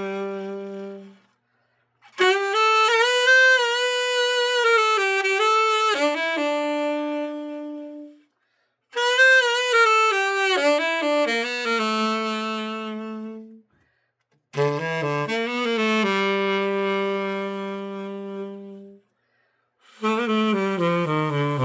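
Tenor saxophone, a Yamaha YTS-875 play-tested after a full overhaul, played solo in four short melodic phrases. Each phrase ends on a long held note and is followed by a brief pause.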